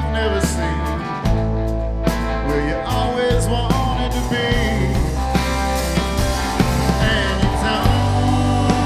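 Live rock band playing: electric guitars, electric bass and a drum kit, with steady drum hits throughout.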